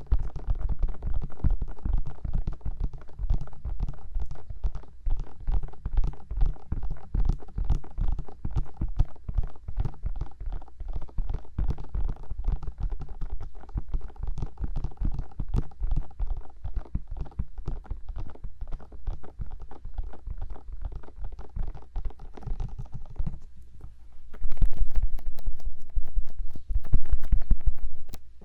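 Fingertips tapping rapidly on the silicone ears of a 3Dio binaural microphone, a dense run of low, thudding taps. About two-thirds of the way through they pause briefly, then come back louder and faster for a few seconds.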